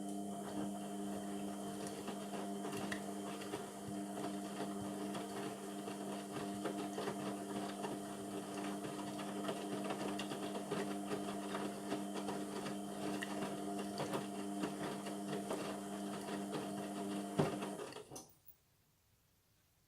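Indesit MTWC71252WUK washing machine drum motor running steadily as it turns the drum during the wash, with a rattle of the wash load. It stops suddenly near the end, leaving near silence.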